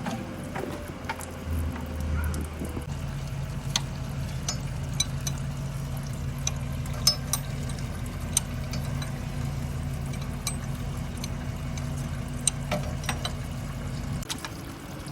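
A steady low mechanical hum that comes in a couple of seconds in and cuts off suddenly near the end, with scattered light clicks.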